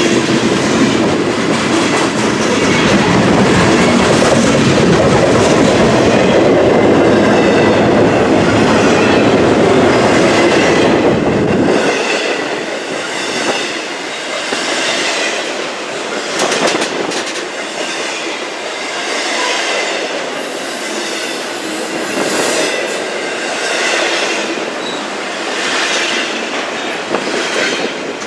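Freight cars of a CSX Tropicana juice and intermodal train rolling past close by, wheels running on rail. A heavy rumble for about the first twelve seconds while the refrigerated boxcars go by, then lighter once the container well cars pass, with a regular clickety-clack of wheels over rail joints and some high wheel squeal.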